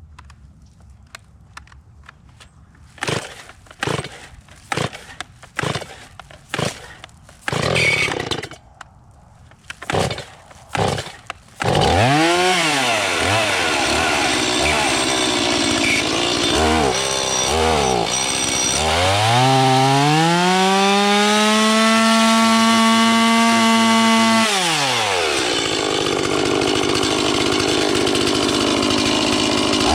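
Two-stroke chainsaw being pull-started: several short rips of the starter cord, with a brief sputter about eight seconds in, before the engine catches. It then idles, is blipped a few times, and is revved up and held high for about five seconds before dropping back, then revved again near the end.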